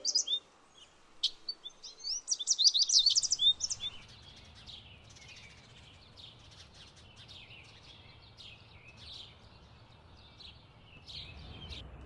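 Songbirds chirping: a loud flurry of quick, high chirps in the first few seconds, then fainter scattered chirping from several birds.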